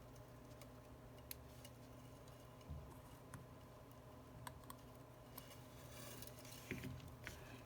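Near silence over a steady low hum, with faint scattered clicks and light taps of small repair tools and phone parts being handled, and a brief scratchy rustle near the end.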